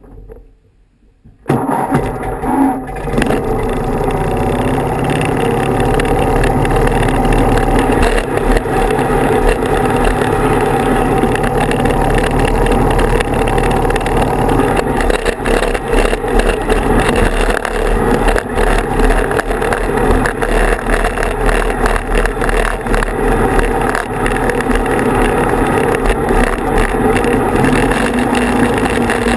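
Riding tractor engine running steadily and loudly, coming in suddenly about a second and a half in.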